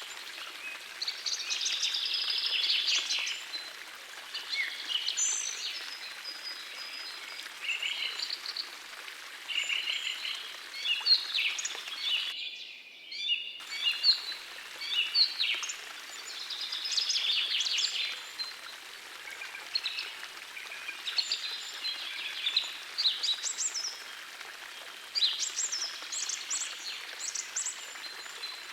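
Several songbirds singing and calling in short, overlapping phrases over the steady rush of a small forest stream. For about a second near the middle the bird song and the upper hiss drop out.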